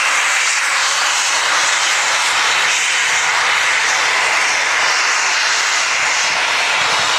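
Steam venting from a steam locomotive with a loud, steady hiss.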